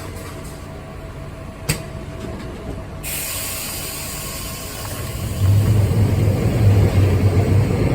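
Vintage Lisbon Tram 28 car running along its rails, heard from on board, with one sharp clack about two seconds in. A hiss comes in at about three seconds, and the low rumble grows louder from about five and a half seconds as the tram picks up or works harder.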